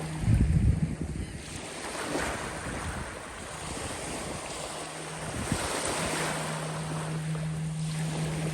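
Small bay waves washing in and drawing back, swelling and fading every few seconds, with wind buffeting the microphone in a short gust just after the start. A steady low hum drops out near the start and comes back about halfway through.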